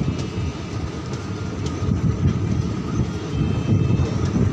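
Indian Railways passenger train running at speed, heard from on board: a steady low rumble of the coaches with a few light clicks from the wheels on the rails.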